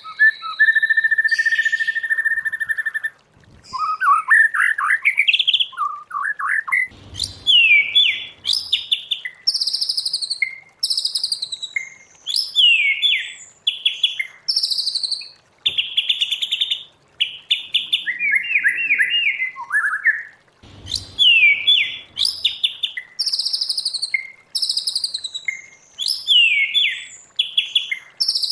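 White-rumped shama singing: a long, steady whistle near the start, then rising sweeps and quickly repeated whistled phrases, broken by a few short pauses.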